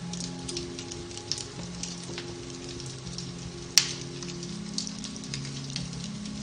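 Beech-log fire crackling in a fireplace: a constant patter of small crackles, with one sharp loud pop a little under four seconds in. Soft, slow music with long held notes plays underneath.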